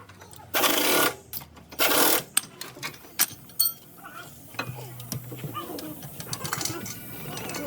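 Pneumatic impact wrench running in two short bursts about a second apart, followed by scattered clicks of tools on metal.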